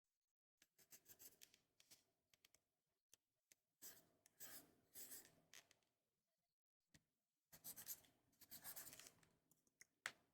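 Faint writing on paper: three spells of scribbling, each a second or two long, with short pauses between.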